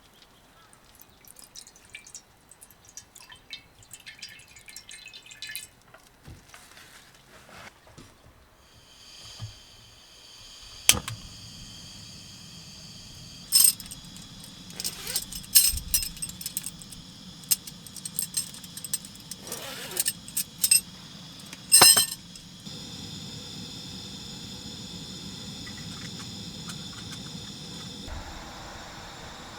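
Sharp clinks and knocks of hard objects being handled, scattered through the middle, over a steady hiss and low hum that comes in partway through and steps up a little near the end.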